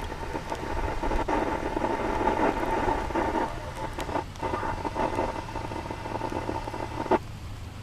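Scanner radio receiving a noisy, garbled transmission that cuts off abruptly with a squelch click about seven seconds in.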